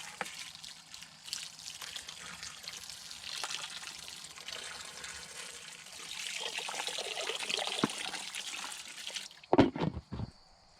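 Water from a garden hose splashing and trickling into the ducks' drinking water. The flow stops near the end, followed by a few short thumps.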